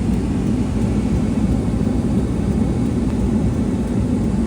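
Steady low rumble of a vehicle running, engine and road noise without a break.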